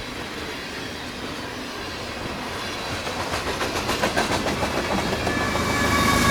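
A CN train rolling past, its wheels clicking in a steady rhythm over rail joints and growing louder about halfway through. A few steady high tones come in near the end.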